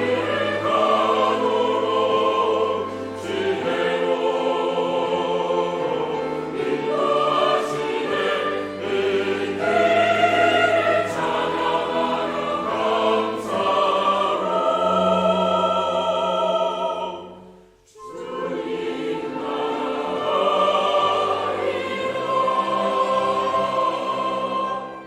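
Church choir singing a sacred anthem in held chords with vibrato. The sound drops away briefly about 17 seconds in, then the choir comes back in.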